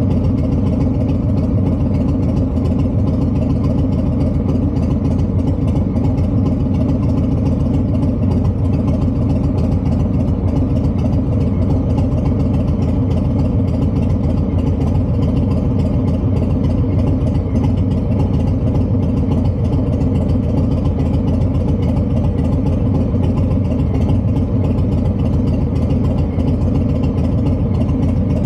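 Harley-Davidson V-twin idling steadily through a TBR (Two Brothers Racing) exhaust, a deep, even rumble.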